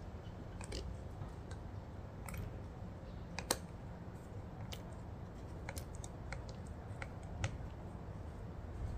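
Scattered light clicks and taps of small metal valve-train parts, the lifters on a 2AZ-FE cylinder head, being handled and set into their bores, over a low steady hum. The sharpest click comes about three and a half seconds in.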